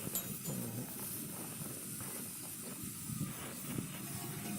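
A steady hiss with no clear engine note or knocks.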